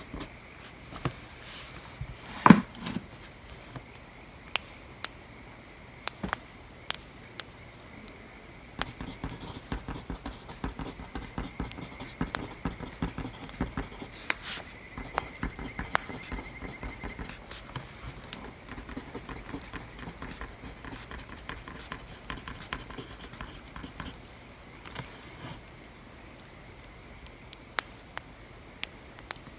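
Campfire crackling in scattered sharp pops, with a pencil scratching over paper in a dense run through the middle. A single louder knock comes about two and a half seconds in.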